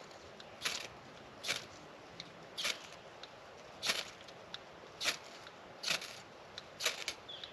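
Ferro rod struck again and again with the spine of a small knife, about eight sharp scrapes roughly a second apart, throwing sparks onto fatwood tinder to start a campfire.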